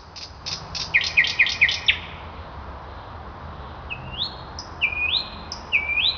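A songbird singing: a fast run of short chirps for about two seconds, then, from about four seconds in, a few longer whistled notes that each rise in pitch, over a steady hiss.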